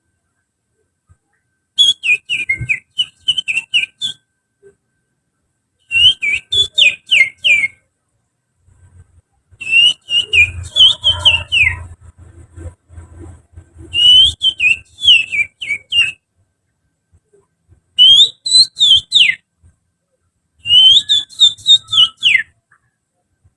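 Finger whistling imitating the song of an oriental magpie-robin (kacer): six loud phrases of quick, sharply sliding whistled notes, separated by short pauses.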